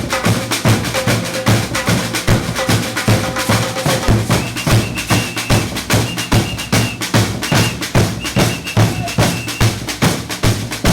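Samba percussion group playing batucada: a fast, dense, steady drum rhythm with deep bass drum beats under quicker snare and wood-block-like strokes. Short high held notes sound over the drumming from about four seconds in.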